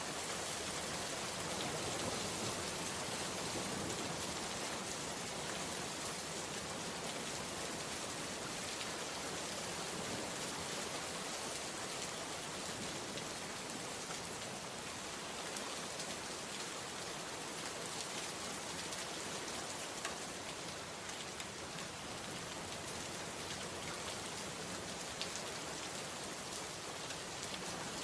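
Steady rain falling and pattering on surfaces, an even dense hiss with scattered individual drop ticks.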